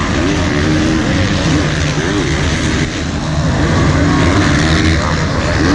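Motocross bikes racing on a dirt track, several engines revving up and dropping back in overlapping rises and falls.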